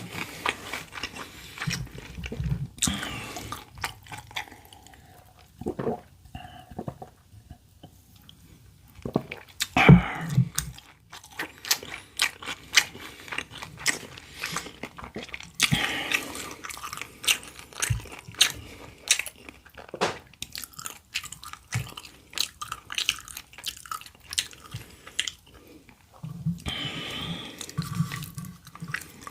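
A person chewing and crunching food close to the microphone, with many short crisp crunches, wet mouth clicks and now and then a louder bite.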